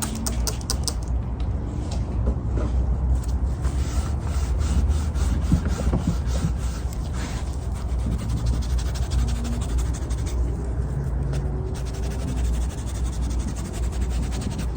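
A cloth rubbing back and forth over a wooden board, wiping stain along the grooves, with a quick run of small clicks and taps in the first couple of seconds.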